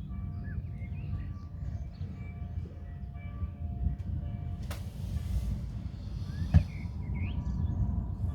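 A low, steady outdoor rumble under birds chirping and calling. There is a brief hiss about five seconds in and a sharp click a little after six and a half seconds.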